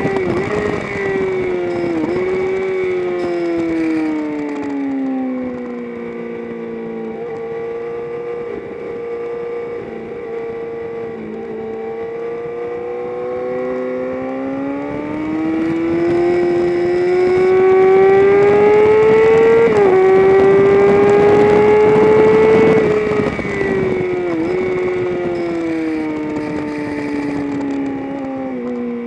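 A race vehicle's engine at speed on a circuit lap: the revs fall over a few seconds, hold steady, then climb for several seconds to an upshift about 20 s in, climb again, and fall away from about 23 s as it slows for a corner.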